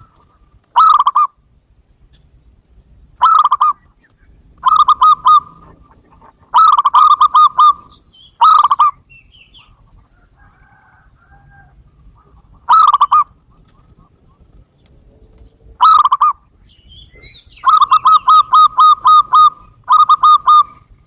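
Zebra dove cooing: about nine phrases of quick, repeated coo notes, each phrase a second or two long, with pauses between them. The longer phrases come near the end.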